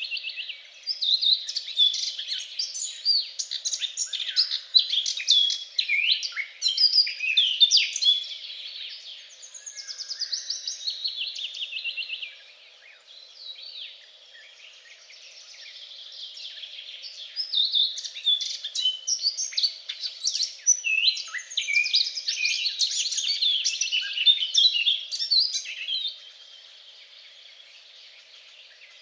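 Songbirds singing, dense overlapping chirps and trills in two busy bouts, with a quieter lull in the middle and fading near the end.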